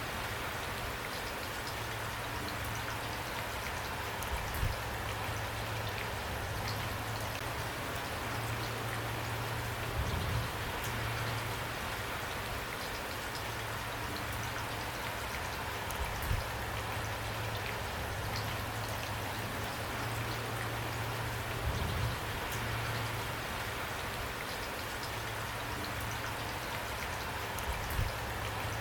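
Steady rain falling, with individual drops ticking through the hiss. A soft low thud comes about every six seconds.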